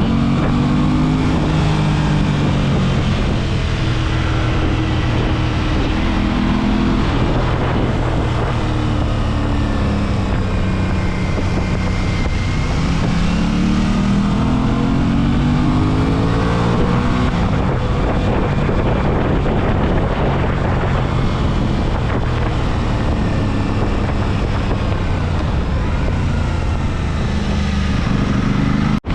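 Aprilia RS 660's 659 cc parallel-twin engine being ridden hard, the revs climbing and dropping again and again through acceleration, gear changes and braking. Wind rush on the microphone.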